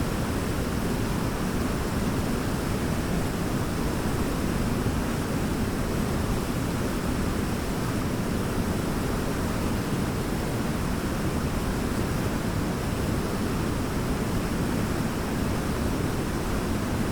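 Large waterfall roaring: a steady, unbroken rush of falling water, heaviest in the low range.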